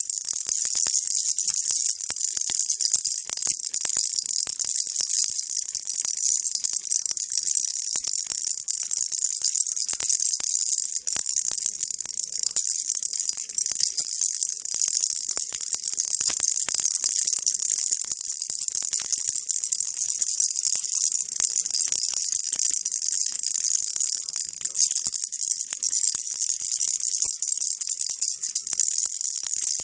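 A baby's rattle shaken continuously, a steady dense hiss of tiny beads clicking that stays even, used as white noise.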